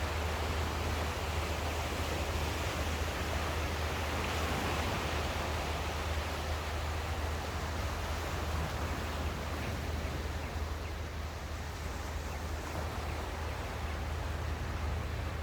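Sea surf washing ashore in a steady, unbroken rush, with a constant low rumble underneath.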